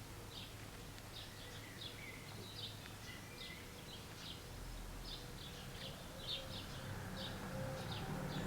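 Small birds chirping in short, high notes, many times over, above a faint low hum that grows a little louder near the end.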